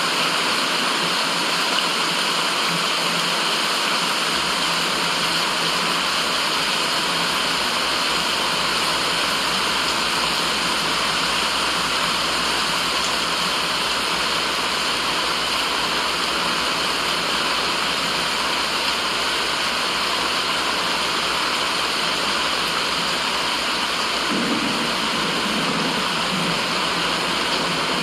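Steady, even rushing of flowing water, like a stream or small waterfall, used as white noise.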